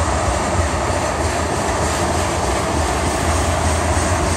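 Freight train of tank cars rolling past: a steady rumble of steel wheels on the rails, with a strong low drone underneath.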